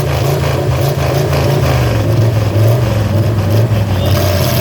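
A mud truck's engine running loud with a steady low drone.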